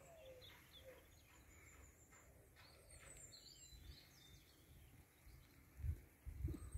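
Faint bird chirps and short calls over a quiet outdoor background, with a low dull bump on the microphone near the end.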